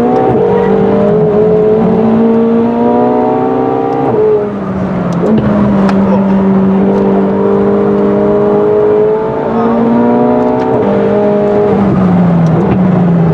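Tuned McLaren 720S twin-turbo V8 heard on board, pulling hard, its pitch climbing slowly then dropping sharply about four seconds in as it changes gear. It climbs again around ten seconds in and then falls in steps near the end as the car slows.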